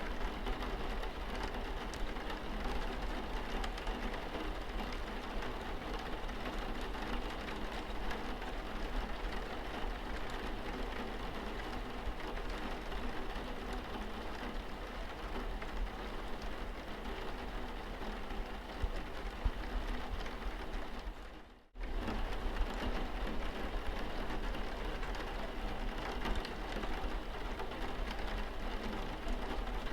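Rain falling steadily on a car's windscreen, an even patter, with a steady low hum underneath. The sound briefly fades out and cuts back in about two-thirds of the way through.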